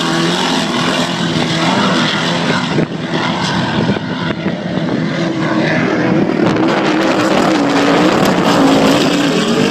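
Racing powerboat engines running hard, their pitch wavering up and down as the throttle changes, over a steady rush of noise.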